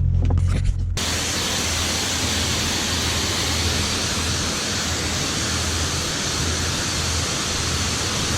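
Low car-engine drone for about a second, then an abrupt cut to a steady, even rushing noise, like wind on the microphone.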